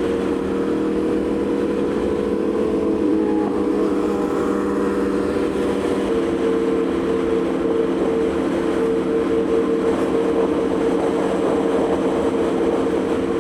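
Aprilia Tuono V4's V4 engine running at a steady cruising speed over a steady rush of wind, its pitch shifting slightly about six seconds in.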